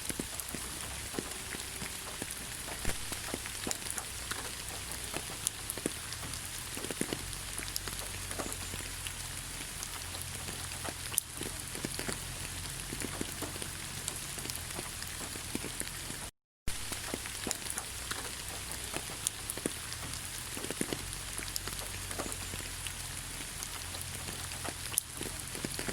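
Steady rain in a forest, with many separate drops ticking close by among the even hiss of rainfall. The sound cuts out for a split second about two-thirds of the way through.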